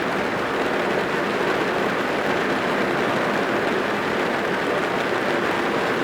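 Steady rain falling on a car, heard from inside the cabin: an even, unbroken hiss.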